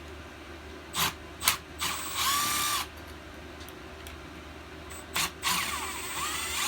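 Power drill backing out a carburetor mounting bolt, run in two short bursts with the motor whine rising, holding and dropping off each time. A few sharp clicks come before the first burst.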